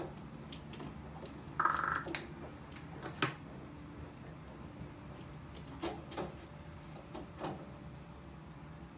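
A bird pecking and tapping at something hard, making scattered sharp clicks, with one short call about two seconds in.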